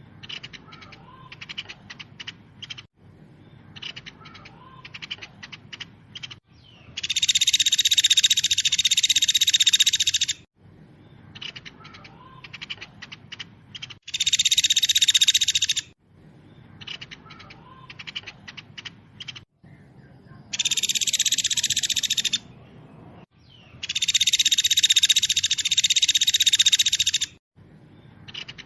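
A small songbird singing a fast, tightly packed trill in four long bursts of two to three seconds, with runs of short, quick chips in between.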